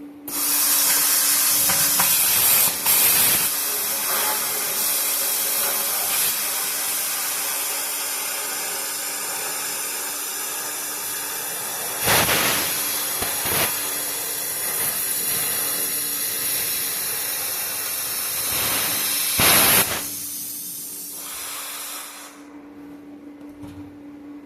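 Bestarc plasma cutter cutting through old oxidized exhaust pipe: a loud, steady hissing of the plasma arc and air jet for about twenty seconds, with a few brief louder surges, dropping lower near the end before it cuts off.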